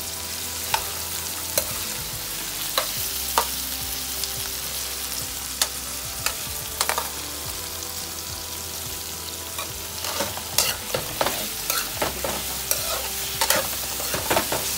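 Ginger, red onion and tomato frying in hot oil in a nonstick pan: a steady sizzle, with a stirring utensil clicking against the pan now and then, more often in the last few seconds.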